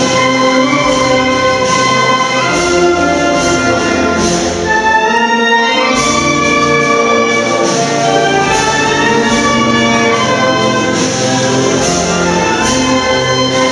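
Brass band playing, with trumpets and trombones sounding held chords over a steady beat.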